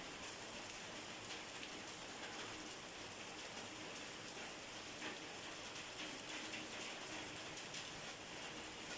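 Steady rain falling, an even hiss with scattered louder drops pattering now and then.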